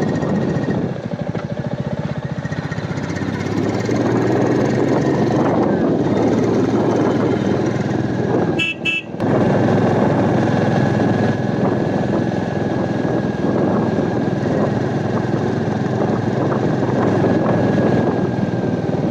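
Royal Enfield Meteor 350's single-cylinder engine running steadily as the motorcycle rides along the road, with wind rush. About nine seconds in come two short horn toots.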